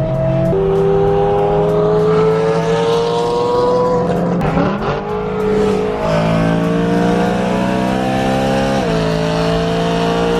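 BMW E92 M3's V8 accelerating hard through the gears, heard from the cabin: the engine note climbs steadily and drops sharply at each upshift, about half a second in, around the middle, and near the end.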